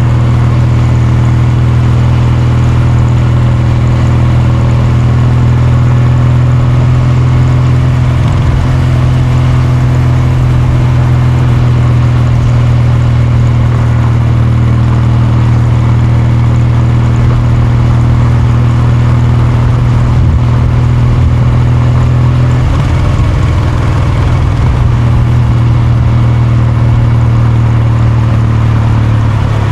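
Kawasaki Meguro K3's air-cooled parallel-twin engine and exhaust running at a steady engine speed. The note wavers briefly about eight seconds in, and shifts between about 22 and 24 seconds before settling again.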